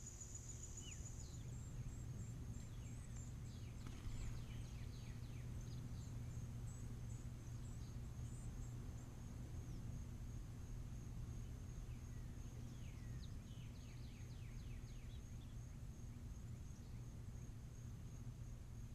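Insects trilling steadily in a high, pulsing drone, with two runs of quick, thin, downward-sliding bird calls, a few seconds in and again about two-thirds of the way through, over a low steady hum.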